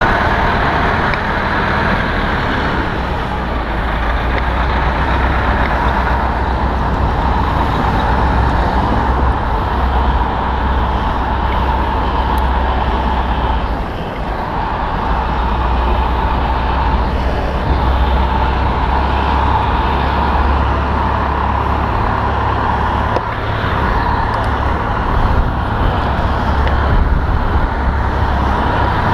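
Street traffic noise heard from a camera on a bicycle riding through city streets, with a steady low rumble under a continuous hiss.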